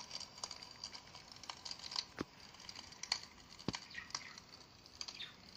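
Recorded wood-fire crackling played through an old phone's small speaker: irregular snaps and pops of burning logs, a fake crackle standing in for a real fire in an artificial fog fireplace.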